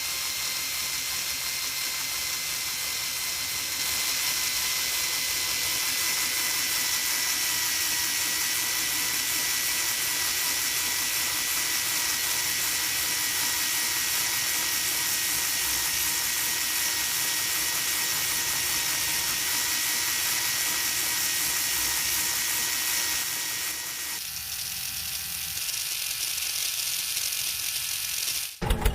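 A small electric motor driving plastic gears, running steadily with a high whine that sags slightly in pitch. It gets louder about four seconds in and eases off near the end.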